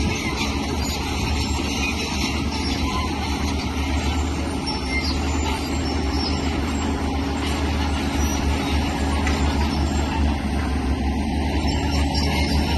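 Diesel engine of heavy earthmoving machinery running steadily, a deep drone with broad mechanical noise over it.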